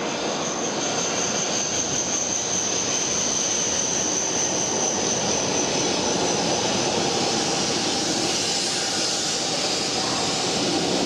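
E7 series Shinkansen pulling into a station platform, its cars running past in a steady rush of wheel and motor noise. A thin high whine sits over the rush and fades out about seven seconds in.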